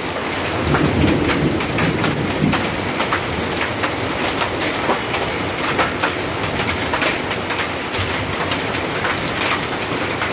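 Heavy rain pouring onto a wet paved lane: a steady hiss thick with the spatter of drops splashing on the surface.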